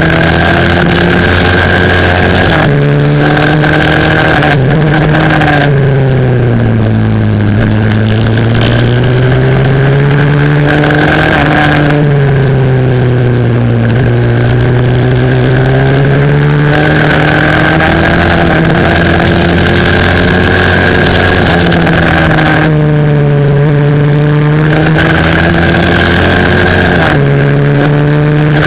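A 140cc four-stroke single-cylinder pit bike engine racing hard, heard from the onboard camera. Its pitch climbs as it revs out, then drops back several times as the rider shifts and backs off for corners, with a steady high whine running above the engine note.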